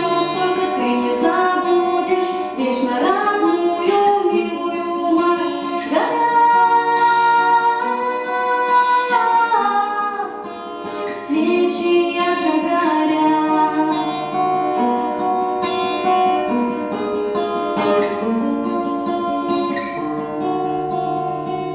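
Acoustic guitar playing with a woman's voice singing along, slow and sustained, the sound easing down a little near the end.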